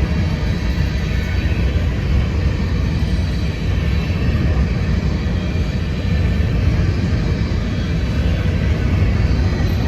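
Steady, loud low rumble of a train rolling past.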